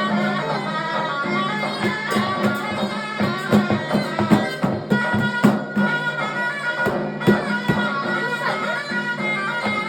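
Davul and zurna music: a zurna melody over a steady drone, with irregular davul drum strokes.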